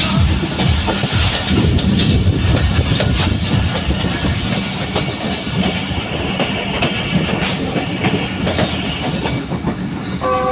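Passenger train running along the track: a loud, steady rumble of wheels and carriage, with short knocks and rattles throughout.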